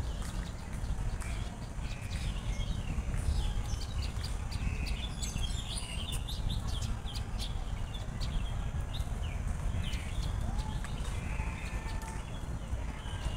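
Small birds chirping in quick short calls, busiest through the middle, over a steady low rumble, with what may be the walker's footsteps.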